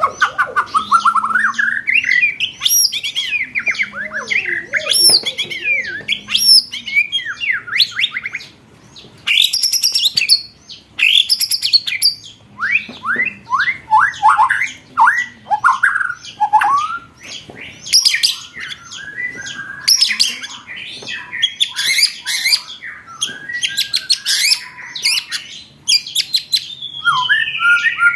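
Recorded songbird song used as a training track for competition birds: a fast, continuous mix of rising and falling whistles, rapid trills and rattling chatter bursts.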